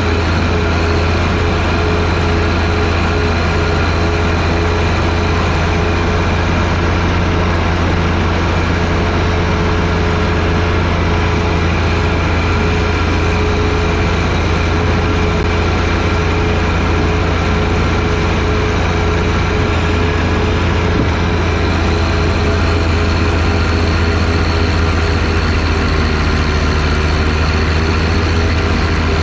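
John Deere 1025R's three-cylinder diesel engine running steadily at working revs, driving the 47-inch front snowblower, with a slight dip in pitch near the end.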